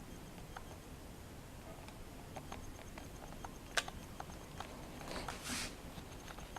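Toaster oven heating, its metal giving faint irregular ticks and clicks as it expands, with one sharper click a little before 4 s and a brief hiss about 5 s in.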